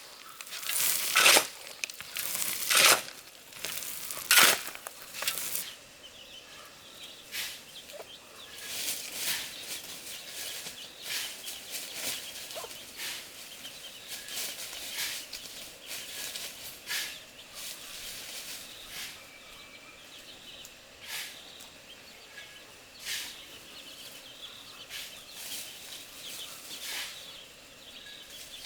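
Several sharp rustling, crunching sounds in the first few seconds, then domestic poultry calling with short rustles and wing flaps.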